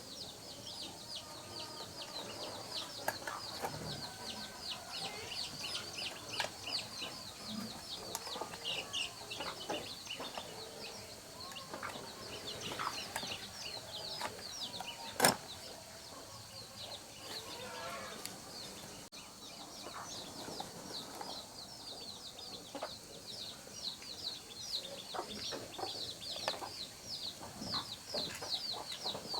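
Chickens clucking over a continuous high, rapid chirping, with scattered light clicks and knocks and one sharp knock about fifteen seconds in; no engine is running.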